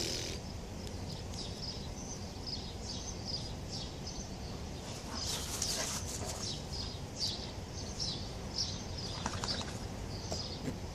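Small birds chirping over and over, two or three short high chirps a second, over a steady low rumble, with brief louder noises about five and nine seconds in.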